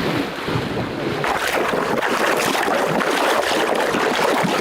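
Steady sloshing and splashing of water, fuller and louder from about a second in.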